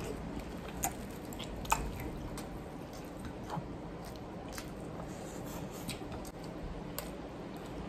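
Wet chewing and lip-smacking from eating saucy shrimp by hand, heard close up. Scattered sharp smacks and clicks run through it, the loudest a little under two seconds in.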